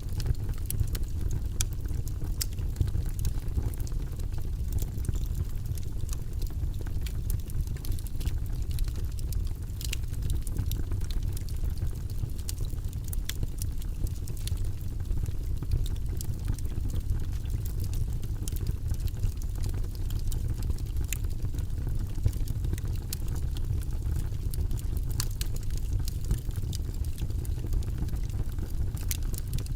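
Logs burning in a fireplace: a steady low rush of flame with many irregular sharp crackles and pops.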